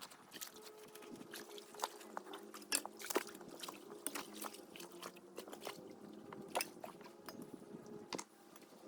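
Footsteps crunching on loose rocks, with irregular clicks of stones knocking together, over a steady low hum.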